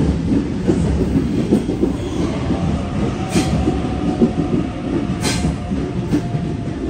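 Electric passenger train running along a station platform: a dense low rumble with wheel clatter and a faint steady whine from about two seconds in. Two brief sharp noises stand out, one near the middle and one later.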